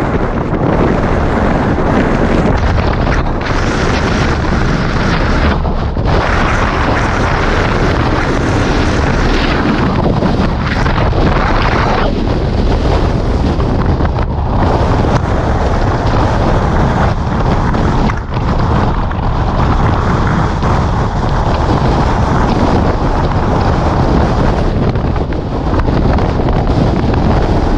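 Strong wind blasting the microphone: a loud, continuous rush that swells and dips in gusts.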